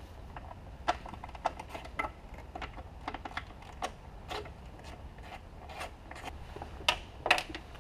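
Scattered light clicks and scrapes of a hand tool working on metal at irregular intervals, as the two T40 Torx screws holding the DISA valve on the intake manifold are undone.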